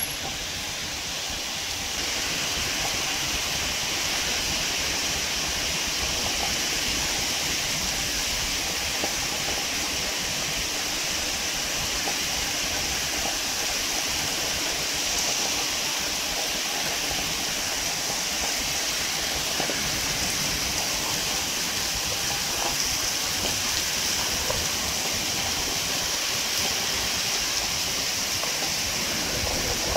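Heavy rain pouring steadily onto pavement, a dense, even hiss.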